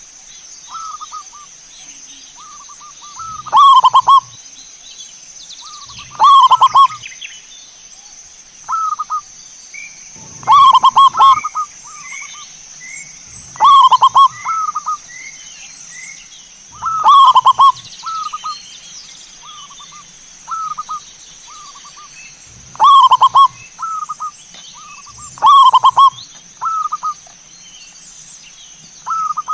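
Zebra dove (perkutut) cooing: short, repeated phrases, loud ones about every three seconds with softer phrases between.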